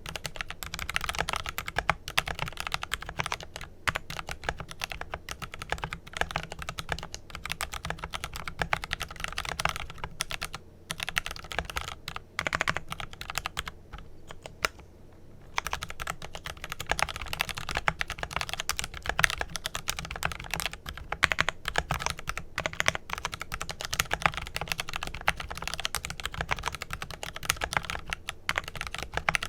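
Rapid typing on a Glorious GMMK Pro mechanical keyboard with lubed Kailh Pro Purple tactile switches: a dense, continuous run of keystrokes with brief pauses about eleven seconds in and again around fourteen to fifteen seconds.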